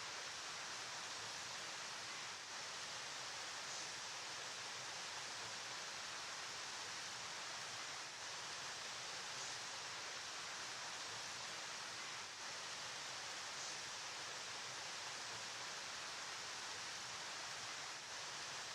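Flowing river: a steady, unbroken rush of water, hissy and even, with no distinct splashes.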